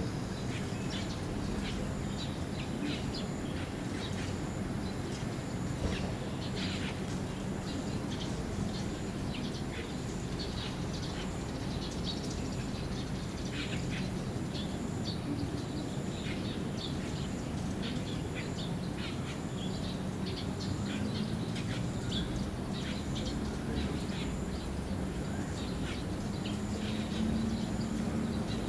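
Birds chirping: many short, high calls scattered throughout, over a steady low background rumble.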